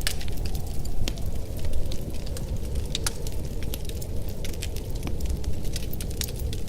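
Wood stove fire crackling, with frequent sharp pops and snaps over a steady low rumble.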